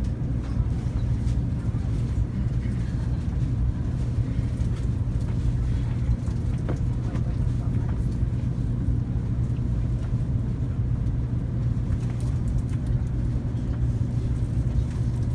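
Steady low hum inside a Taiwan High Speed Rail carriage while the train stands at the station before departure.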